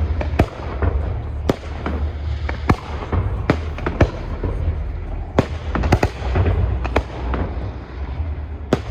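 Fireworks display: about a dozen sharp bangs of bursting shells at irregular intervals, over a steady low rumble.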